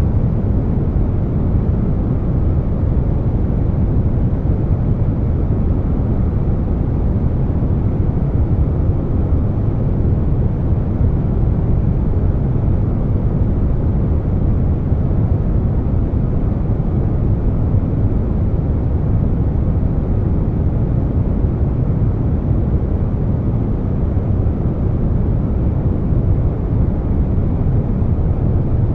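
Steady air conditioner noise blended with brown noise: a deep, even rush with no tones, clicks or changes.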